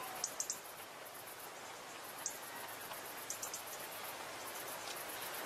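Short, high-pitched bird chirps in quick runs of two or three, heard a few times over a steady soft outdoor hiss.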